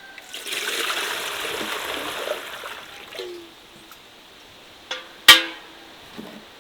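Water pouring and splashing for about two seconds, then a few light knocks and one sharp clink that rings briefly about five seconds in.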